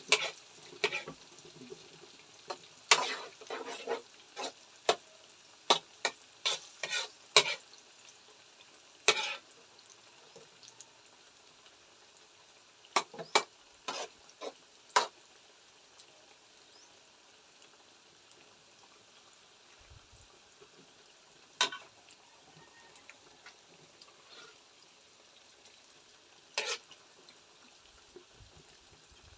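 Pork liver sautéing with chili in a pan: a faint steady sizzle under loud, irregular scrapes and clacks of a spatula against the pan. The clacks are thick in the first half and then come only now and then.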